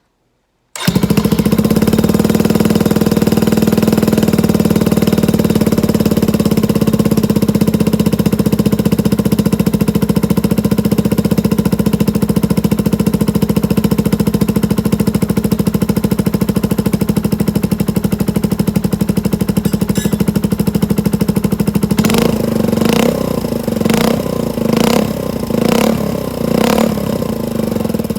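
Suzuki GN125's single-cylinder four-stroke engine, exhausting through a bullet-type aftermarket muffler. It starts about a second in and idles steadily, then is revved in about six short throttle blips near the end.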